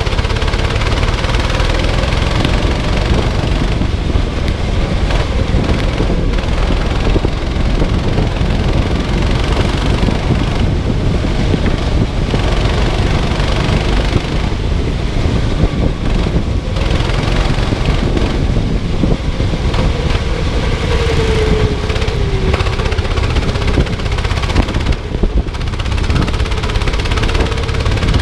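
Go-kart engine running under way, its pitch dipping and rising again about three-quarters of the way through, under a loud steady low rumble of noise.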